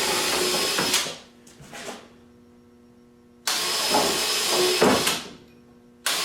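Grinder grinding the protruding tips of screws off flush, in three short bursts of about a second or two each, cutting off between them. A faint steady hum fills the gaps.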